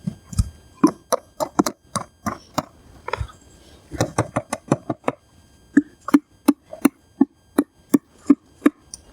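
Hammer driving nails into wooden log poles: a run of sharp, evenly spaced blows, about two to three a second, with short pauses between nails.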